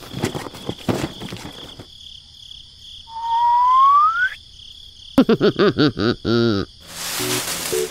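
Layered sound effects over a steady, thin, insect-like chirring. A run of clicks comes first, then one smooth rising whistle about three seconds in, then a quick series of bouncing, warbling calls around five to six seconds in, and a short hiss near the end.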